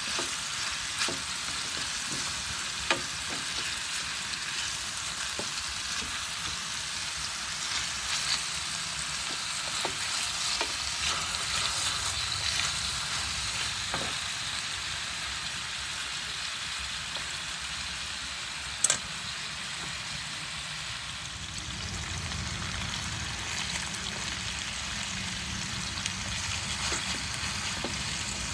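Chicken drumsticks sizzling in hot oil in an electric skillet: a steady frying hiss. Scattered sharp clicks of wooden chopsticks against the pan as the pieces are turned, one louder click about two-thirds of the way through.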